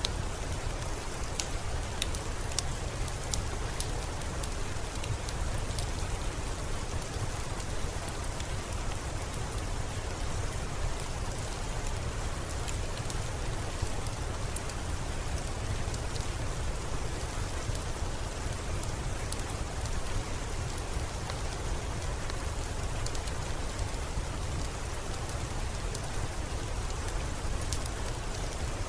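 Steady rainfall, an even hiss with scattered light ticks of drops and a deep low rumble underneath.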